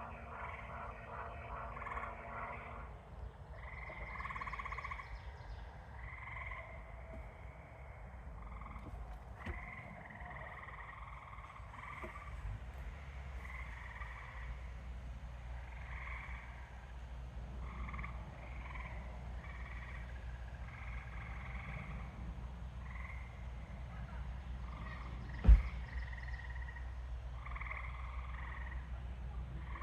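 A chorus of frogs calling at night-pond ambience level: many short, overlapping trilled calls repeating throughout. A single sharp knock near the end is the loudest sound.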